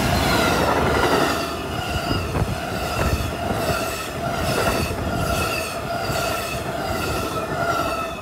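Amtrak passenger train passing close by, a steady rumble of wheels on rail with a few sharp clacks over the rail joints. A high ringing tone pulses over it at an even rate, about twice a second.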